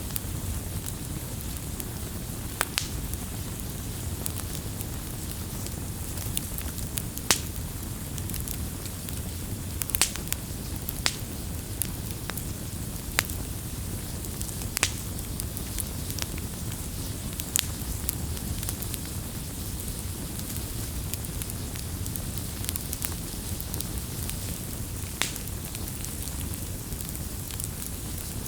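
Campfire burning: a steady low rumble and hiss of flames, with sharp crackling pops from the burning wood every few seconds at irregular times.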